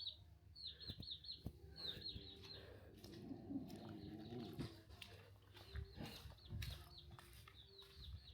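Chicks peeping in quick runs of high, falling chirps, mostly in the first few seconds and faintly again near the end, with low chicken clucking around the middle.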